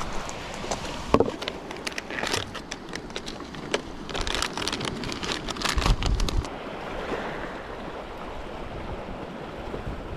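Seawater splashing and lapping in irregular bursts, with wind on the microphone.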